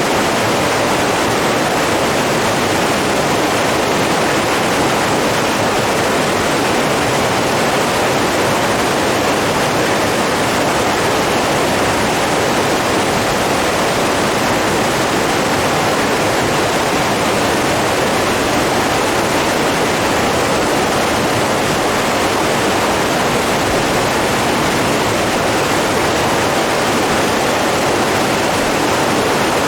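Steady, unbroken rushing of running water, with no waves, splashes or other events standing out.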